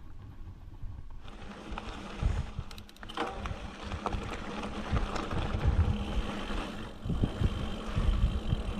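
Wind buffeting the microphone of a camera riding on a mountain bike, an uneven low rumble in gusts, with the bike rattling and clicking over rough ground, most of all about two to three seconds in.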